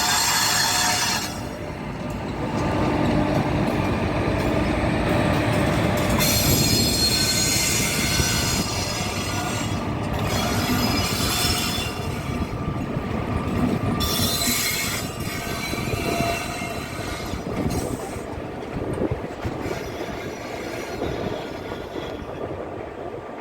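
Pair of WAG-5 electric locomotives moving, with repeated high-pitched creaking and squealing over a low rumble.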